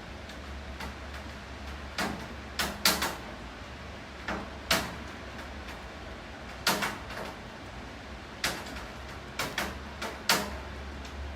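Steady rain with heavy drops tapping irregularly on a hard surface: about a dozen sharp taps, some in quick pairs, over a constant hiss and a low steady hum.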